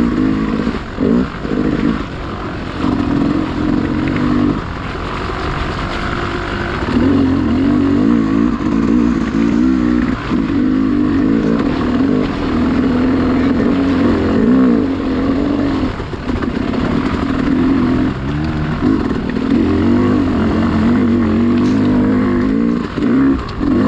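Dirt bike engine revving up and down as the rider works the throttle, with brief drops where the throttle is chopped, several times.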